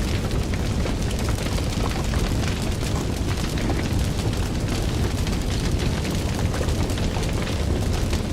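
Fire burning with a steady low roar and continual small crackles and pops.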